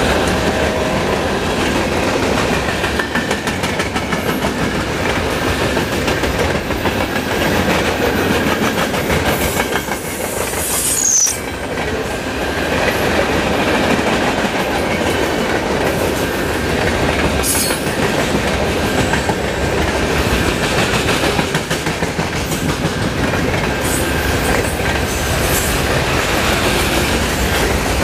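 Freight cars of a passing train, loaded center beam lumber flat cars and box cars, rolling by at speed: a steady rumble with the clickety-clack of wheels over rail joints. Brief high-pitched wheel squeals come a few times, about a third of the way in and again later.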